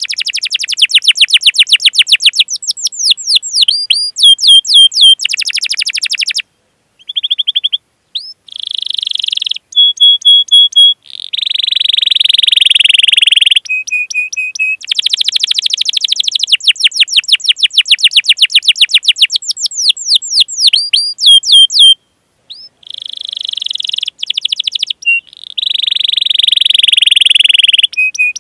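Domestic canary singing a long, loud song of fast rolling trills and rapid 'cuit cuit' chirps, with short held whistled notes between them. It breaks off for a moment twice.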